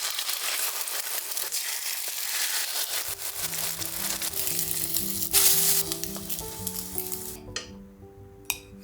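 A steady crackling sizzle that stops sharply about three-quarters of the way through. Soft background music with slow held notes comes in partway through.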